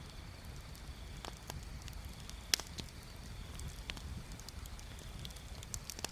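Wood bonfire crackling, with irregular sharp pops and snaps; the loudest pop comes about two and a half seconds in. A low steady rumble runs underneath.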